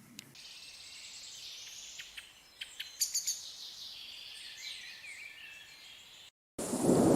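Birds chirping and calling over a steady high hiss in open countryside. Near the end it cuts off abruptly, and after a brief gap a much louder steady rush of rain takes over.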